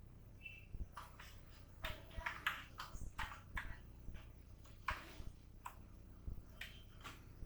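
Computer keyboard being typed on: faint, irregular key clicks, some in quick clusters, with a short high beep about half a second in.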